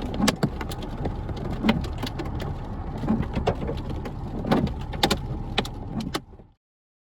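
Raindrops tapping irregularly on a vehicle over a steady low rumble of wind and engine. The sound cuts off abruptly to total silence about six and a half seconds in.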